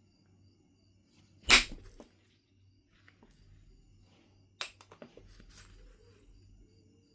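Flintknapping strikes on Knife River Flint: two sharp cracks, the louder one about a second and a half in and the second about three seconds later, each followed by a few smaller clicks.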